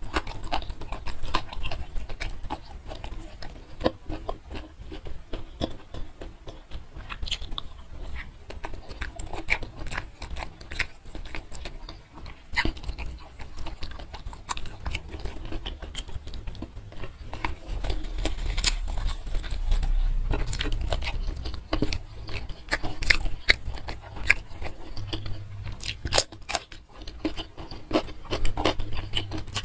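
Chewing and biting at close range: wet mouth clicks and crunches of a mouthful of rice, green chilli chicken and petai beans, eaten by hand.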